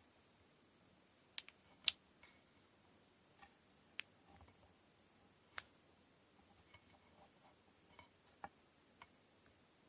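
Scattered light clicks and ticks from hands handling kumihimo braiding tools and cotton thread, about a dozen at uneven intervals, the loudest about two seconds in.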